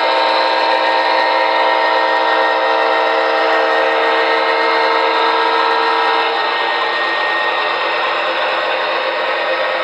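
MTH Premier ES44AC O-gauge model diesel's sound-system horn sounding one long steady blast that cuts off about six seconds in, over the steady running noise of the locomotive.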